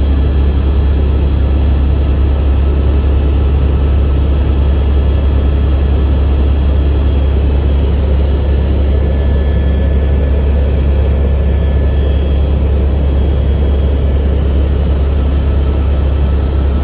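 Helicopter in flight: the engine and rotors make a loud, steady low drone, with faint high whining tones over it.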